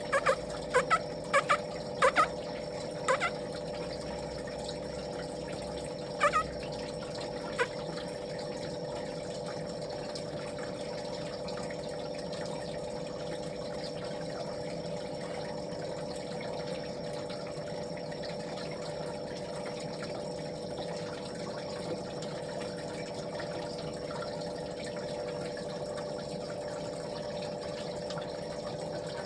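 A steady mechanical hum with several even tones, like a small motor or pump running, with a few short sharp sounds over it in the first eight seconds.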